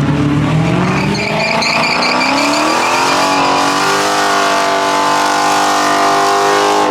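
A car engine revving hard: its pitch climbs steadily for about four seconds, then holds at high revs until near the end.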